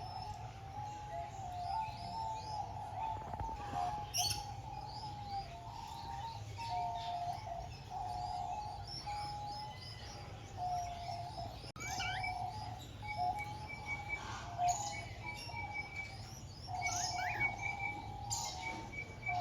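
Birds chirping and calling, many short overlapping chirps over a continuous string of lower stepping notes, with a repeated high piping note from about twelve seconds in.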